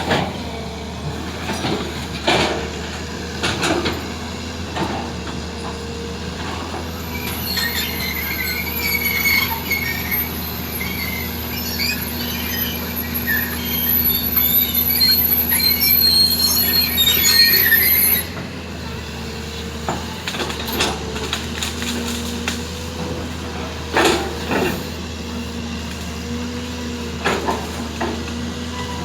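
Heavy diesel machinery running steadily during the unloading of an amphibious excavator, with scattered clanks and knocks. For about ten seconds in the middle, a loud, high metallic squeal rises over the engine and then stops abruptly.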